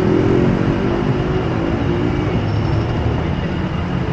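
A motor vehicle's engine running close by in street traffic, a steady low hum that eases off slightly.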